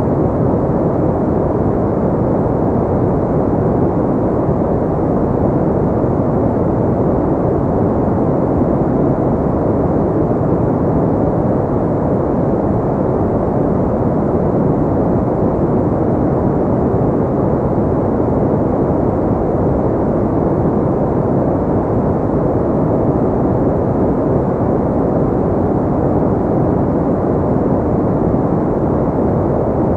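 Pink noise: a steady, unchanging rushing hiss, deep and muffled, with most of its weight in the low and middle range and little high treble.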